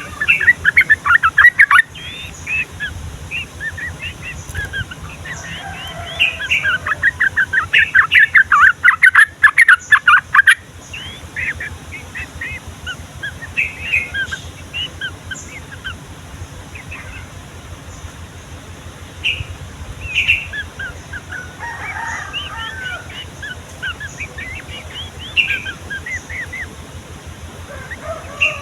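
Yellow-vented bulbuls singing and chattering: fast runs of loud chirping notes near the start and again from about six to ten seconds in, then scattered short calls.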